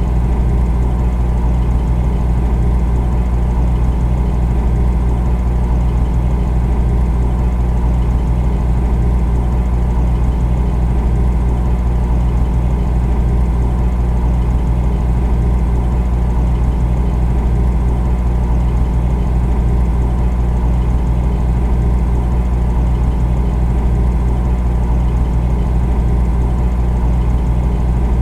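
Refrigerator running with a steady, deep hum: an even low drone with a few fixed tones above it, unchanging.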